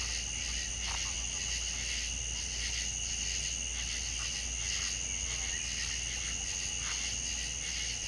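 Steady chorus of insects, crickets trilling, with a few faint short calls from other animals now and then.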